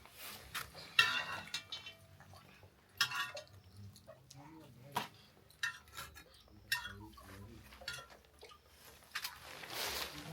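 Dishes and cutlery clinking and clattering, several separate ringing clinks a second or two apart.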